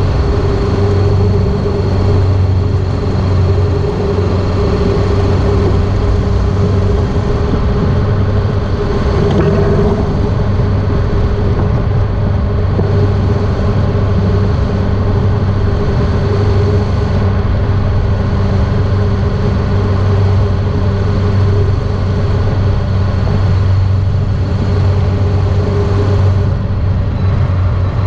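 Honda ST1300 Pan European motorcycle's V4 engine running at a steady pitch while riding, over steady wind and road noise.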